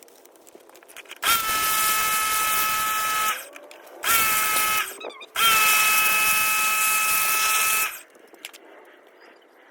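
Electric pressure washer run in three bursts: the motor spins up to a steady high whine over a strong spraying hiss, stops, and starts again twice, the last burst the longest.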